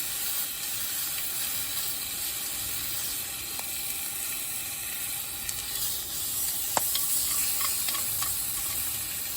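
Steady sizzling hiss with a few sharp crackles, the loudest about seven seconds in.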